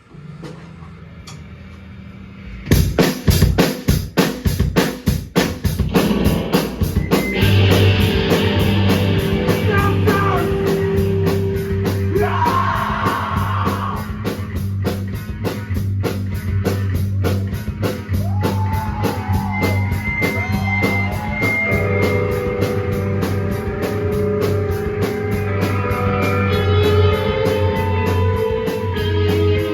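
Live rock band starting a song: a low bass note rings at first, then about three seconds in the drums come crashing in with a run of fast hits, and the full band with electric guitars, bass and drums plays on loudly.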